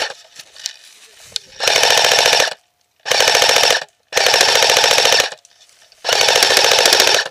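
Airsoft rifle firing four long full-auto bursts of about a second each, a rapid even rattle of shots with short pauses between bursts.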